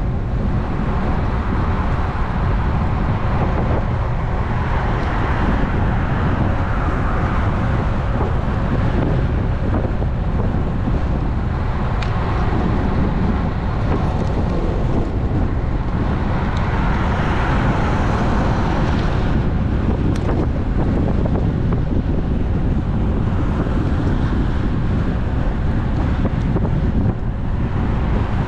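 Wind rushing over an action camera's microphone on a moving road bike: a steady, heavy rumble with road and traffic noise mixed in, swelling twice, about five and seventeen seconds in.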